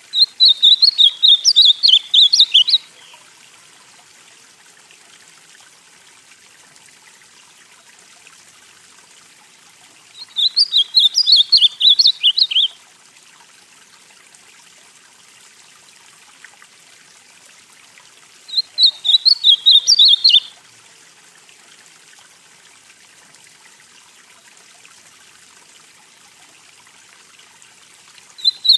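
Northeastern Brazilian ultramarine grosbeak (azulão) singing: three loud, quick warbled phrases of about two and a half seconds each, spaced roughly eight to ten seconds apart, with a fourth phrase starting at the very end. A faint steady hiss lies underneath.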